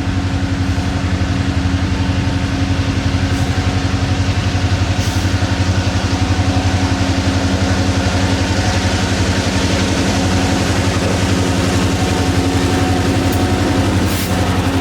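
Diesel locomotive engine running steadily with a fast, even throb.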